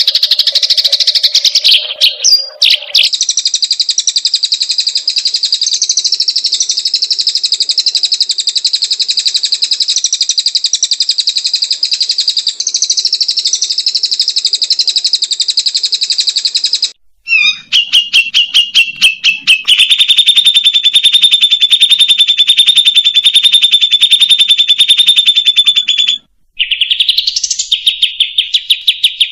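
Recorded songbird song for cage-bird training: long, very fast, buzzy trills at a high pitch. The trill breaks off abruptly about two thirds of the way in and again near the end, each time switching to a different steady trill.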